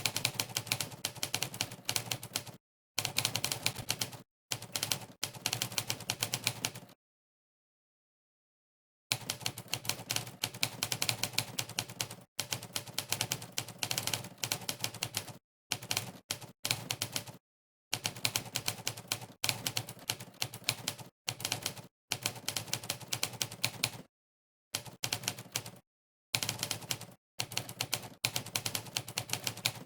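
Typewriter keystroke sound effects from the Monkeytype typing site, one sharp clack per key press in fast runs of typing. The runs are broken by several pauses of dead silence, the longest about two seconds near the quarter mark.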